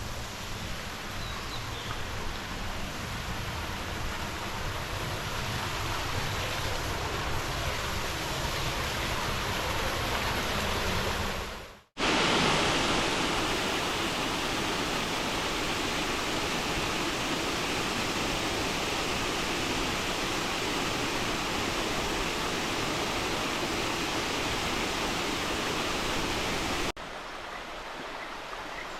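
Steady rush of water from waterfalls and a mountain stream. It cuts off abruptly about twelve seconds in and comes back louder, then steps down quieter near the end.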